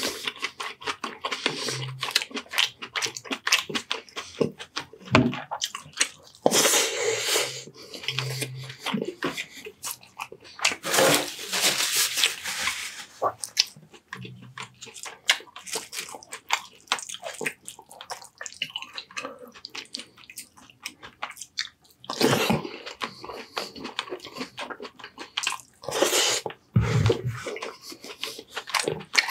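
Close-miked eating sounds of a person chewing baked sea bass and rice: many wet mouth clicks and smacks, broken by several noisy, swishing stretches that last a second or two.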